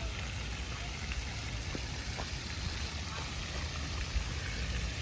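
Steady outdoor noise: wind rumbling on the microphone over an even hiss, with a few faint ticks.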